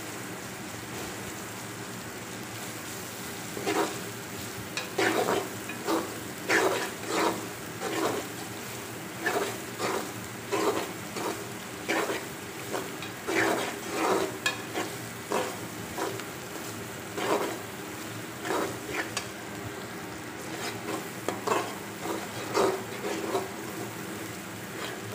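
Onions and ginger-garlic paste sizzling in hot oil in a metal pot, being fried off to cook out the paste's raw smell. From about four seconds in, a spatula scrapes and stirs against the pot in irregular strokes.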